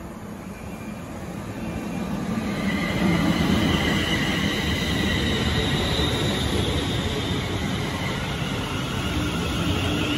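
Electric multiple unit running in along the platform: a rolling rumble that swells over the first few seconds as the train draws alongside, then holds steady. A high, thin squeal from the wheels or brakes sits over it from about two and a half seconds in.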